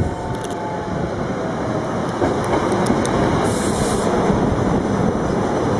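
SEPTA Silverliner IV electric multiple-unit train passing close by at speed: a steady rumble of steel wheels on the rails with scattered clicks, and a brief hiss about three and a half seconds in.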